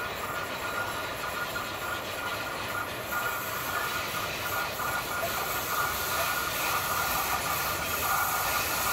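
PKP Intercity EU07 electric locomotive hauling a passenger train as it approaches, its running noise growing steadily louder from about three seconds in, with a steady high-pitched tone running through it.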